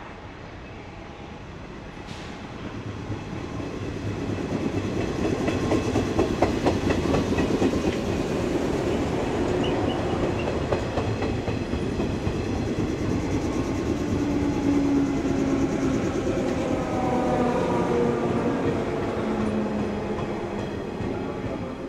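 Electric multiple-unit train running past close by, growing loud over the first few seconds, with wheels clacking over rail joints and a motor hum whose pitch slides downward in the second half.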